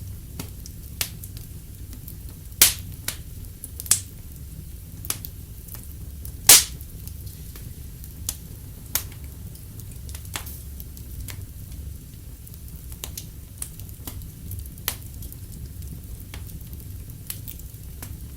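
Wood fire crackling: irregular sharp pops and snaps over a low steady rumble, with a louder snap near three seconds in and the loudest about six and a half seconds in.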